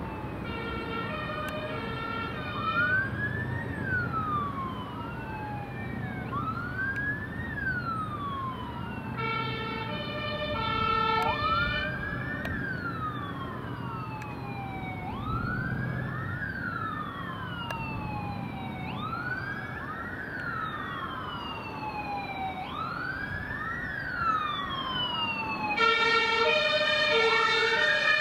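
Emergency sirens of fire engines and a police vehicle on an emergency run, two wailing sirens overlapping in slow rising-and-falling sweeps over a low engine and road rumble. Bursts of a rapidly pulsing horn tone cut in about a second in, around ten seconds in, and again near the end.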